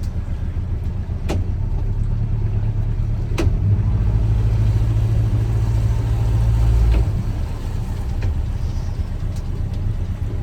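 Boat engine running under way, the throttle opened up for about three seconds near the middle and then eased back. A couple of sharp clicks early on.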